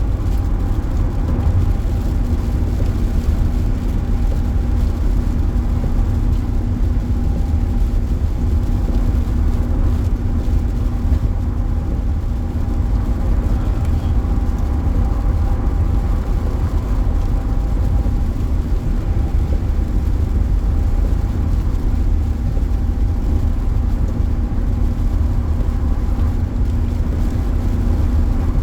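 Steady road and engine noise heard from inside a car's cabin at highway speed: a dense low rumble with a faint constant hum, unchanging throughout.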